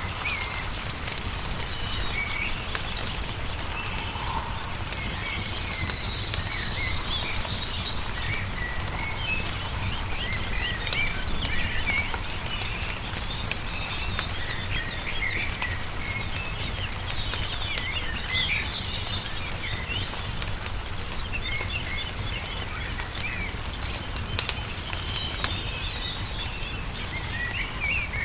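Songbirds chirping and twittering continuously over the scattered pops and crackles of a wood fire, with a steady low rumble underneath.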